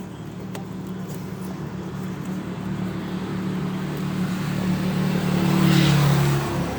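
A motor vehicle engine running, growing steadily louder to a peak near the end and then dropping off.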